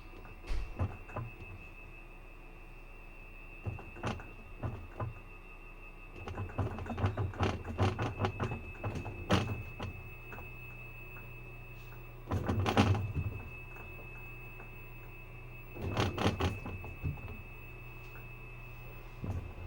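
Washing machine in its spin cycle: a steady hum with a high, even whine, broken by irregular bouts of knocking and rattling, the loudest about two-thirds of the way through.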